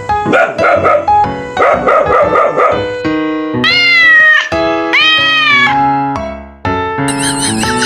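Background music with steady piano-like notes, over which a cat meows twice, two drawn-out calls that rise and fall, about three and a half and five seconds in.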